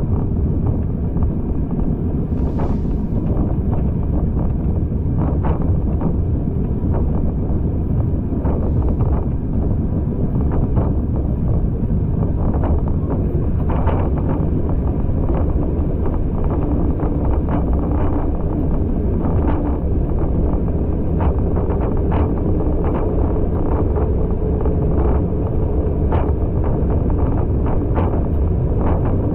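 Moving passenger train heard from the carriage: a steady rumble of the running gear on the track, with wind buffeting the microphone and frequent irregular clicks and knocks from the wheels and carriage.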